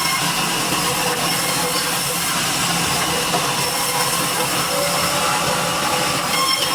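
Sawmill saw running steadily and cutting durian wood, a continuous dense noise with a steady low hum and high whine.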